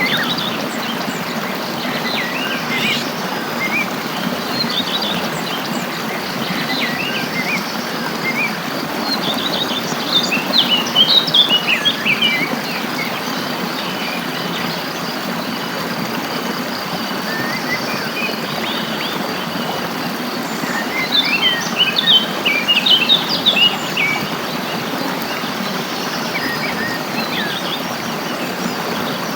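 Songbirds chirping in quick flurries over a steady rush of flowing water. The busiest, loudest flurries come about a third of the way in and again about two thirds through.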